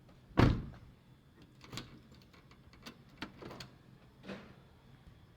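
A car door shutting with a single heavy thump, followed by a few lighter clicks and knocks.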